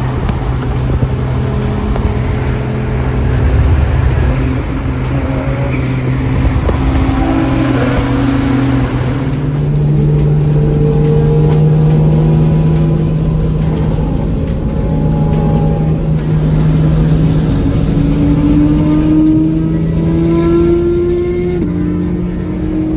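Car engine and road noise while driving: the engine drones steadily, its pitch stepping up about ten seconds in, then climbing slowly and dropping back again near the end, as with gear changes.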